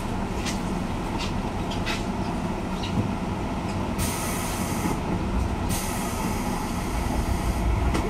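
JR 201 series electric train heard from inside, standing or creeping at a station with a low rumble and a few clicks. About four seconds in come two loud bursts of compressed-air hiss from the train's pneumatic system, typical of the brakes releasing air at a stop or the doors working.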